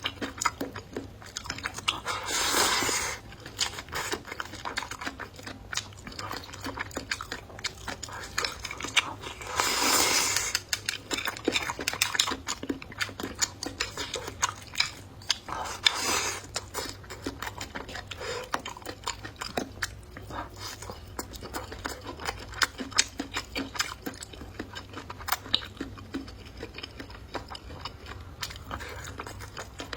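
Close-up mouth sounds of a person eating: steady chewing with many small wet clicks and smacks. Three longer, louder noisy swells come about two seconds in, around ten seconds and around sixteen seconds.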